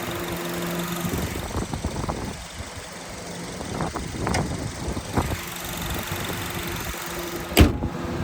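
2010 Honda CR-V's 2.4-litre four-cylinder engine idling steadily, dropping back for a few seconds in the middle, with scattered light knocks and one sharp thump near the end.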